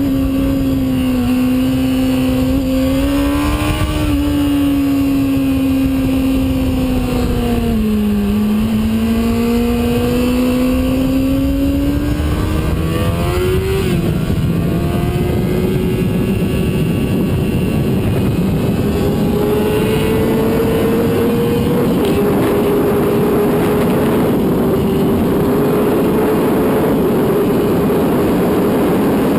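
Sport bike engine at track speed over a steady rush of wind noise. Its pitch sinks to a low about 8 seconds in and climbs again, then breaks and jumps about 14 seconds in, and afterwards holds steadier and higher.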